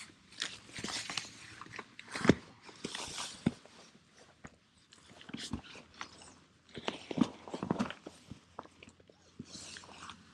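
Rustling and crinkling of a Big Agnes Lost Ranger nylon sleeping bag being handled and hooked up, with irregular sharp clicks and snaps among the rustles.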